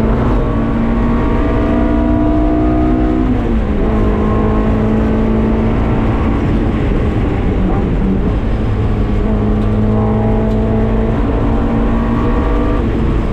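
Honda K-series four-cylinder in a K-swapped Mazda MX-5 running hard at high revs under load, with an upshift about three and a half seconds in.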